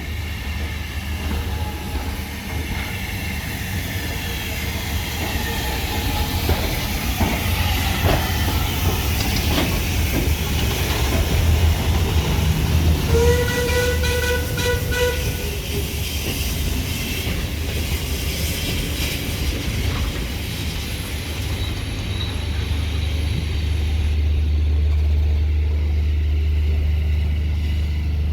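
Caledonian Railway 828, a steam locomotive, running into the station with a steady rumble and irregular clanking and knocking of wheels and rods over the track. About halfway through its whistle sounds once for about two and a half seconds.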